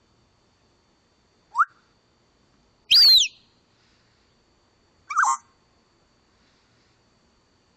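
A bird calling three times: a short rising chirp, then a louder call that rises and falls in pitch, then a shorter call.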